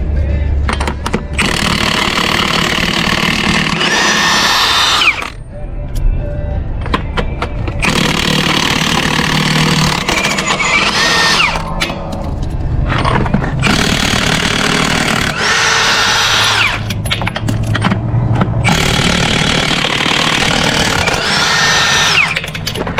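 Cordless Milwaukee impact wrench running in four long bursts of several seconds each, with short pauses between them.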